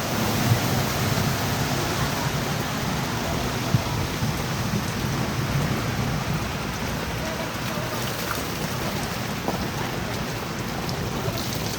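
Heavy rain pouring down, a steady hiss of rain on surfaces.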